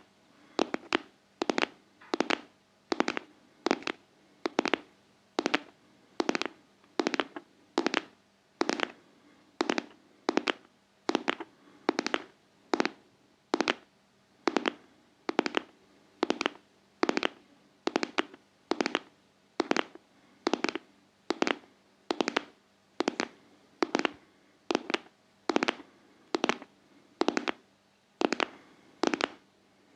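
Close-miked ASMR tapping, the 'heart-tapping' trigger: a long, even run of sharp taps, a little under two a second.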